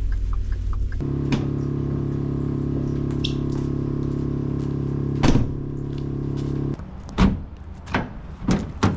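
A steady mechanical hum, like a motor running, for about six seconds that cuts off suddenly, with a sharp knock partway through, followed by a few separate knocks.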